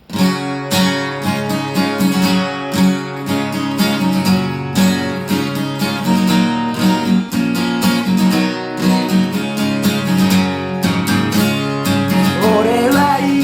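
Acoustic guitar strummed in a steady rhythm, playing a song intro; a singing voice comes in near the end.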